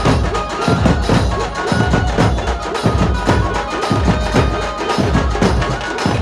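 Chhattisgarhi dhumal band playing a Bollywood tune: fast, dense drum and percussion strokes under a melody line.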